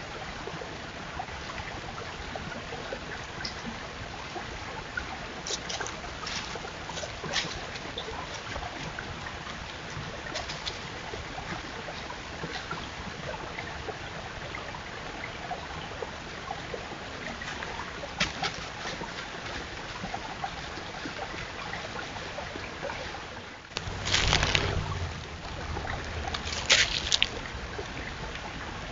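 White-tailed deer chewing apples: scattered crisp crunches over a steady hiss, with a louder noisy burst about three-quarters of the way through and a cluster of sharp crunches just after.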